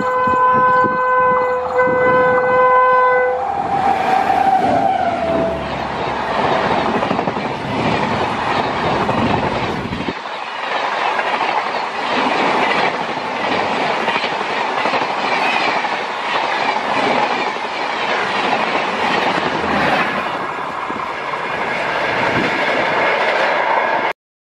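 Electric locomotive horn sounding for the first three seconds or so, followed by a tone that drops in pitch as the train passes. Then the rushing noise and wheel clatter of an express train's coaches speeding past, going on through a change of shot at about ten seconds and stopping abruptly near the end.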